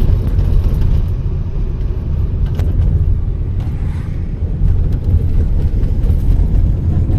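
A car driving along a road, with a steady low rumble of engine and tyres.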